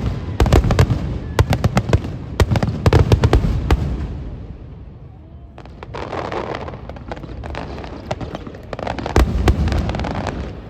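Aerial fireworks bursting in rapid succession, a dense volley of bangs that thins to a brief lull about halfway, then another run of bursts.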